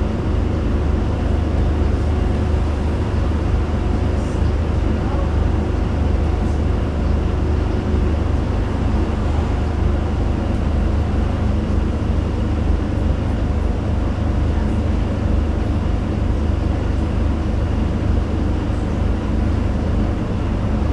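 Scania N250UD double-decker bus heard from the top deck inside the cabin: the five-cylinder diesel engine's steady low rumble with road and body noise. A faint higher hum fades out about eight seconds in.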